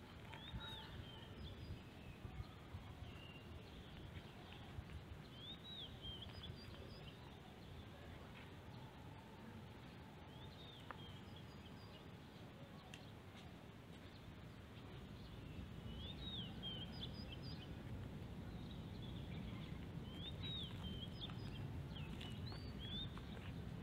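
Small birds chirping, short rising-and-falling chirps in little clusters every few seconds, over a low steady outdoor rumble that grows slightly louder about two-thirds of the way through.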